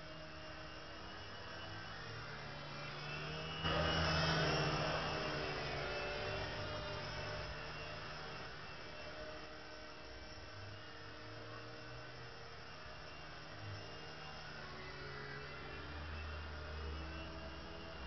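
Mini 3-channel RC helicopter's small electric motors and rotors whirring with a steady hum. It gets suddenly louder almost four seconds in, as if the throttle is opened, then slowly settles back.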